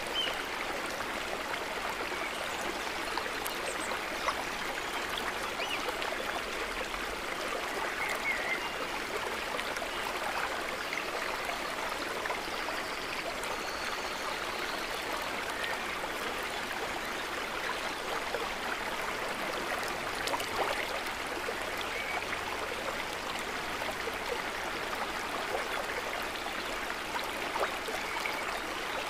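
Steady, continuous trickling and babbling of shallow water, an even wash with small gurgles throughout.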